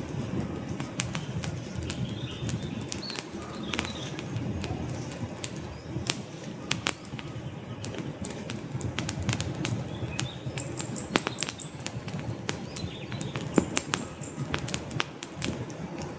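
Logs burning in a fireplace, crackling with frequent irregular sharp pops and snaps over a low steady rumble of flames.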